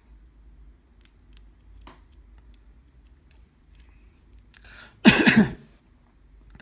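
A man coughs once, loudly, about five seconds in, just after a short breath in; he has a cold. Before that come faint, scattered small clicks, the pick working the pins of a night-latch lock.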